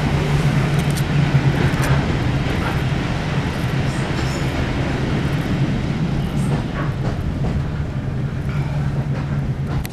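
Railway passenger carriage of a steam-hauled train running along the track, heard from inside the compartment while passing through a tunnel: a steady hum and noise of the wheels on the rails, with a few faint clicks.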